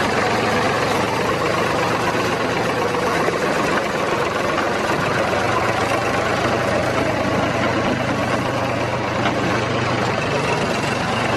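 Heavy vehicle engine running steadily with a low drone.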